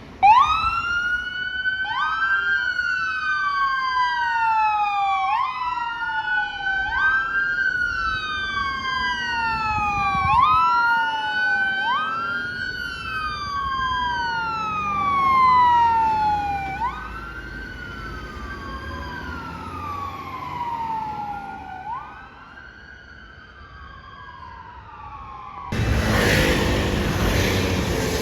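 Two fire engine sirens wailing out of step, each repeatedly rising quickly and sliding down over about two seconds, fading as the trucks move away. Near the end the sirens give way abruptly to a loud even rumble of engine and road noise.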